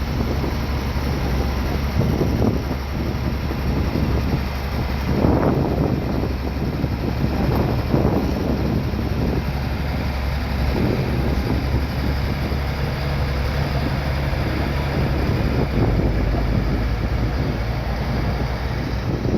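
Bulldozer's diesel engine running steadily under work, with a few louder surges about five and eight seconds in.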